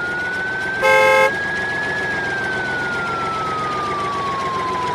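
A siren-like wail: one slow tone that rises for about two seconds and then sinks. About a second in, a short loud honk cuts across it.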